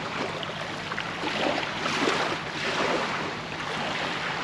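Small waves washing onto the shore in slow swells, with wind noise on the microphone.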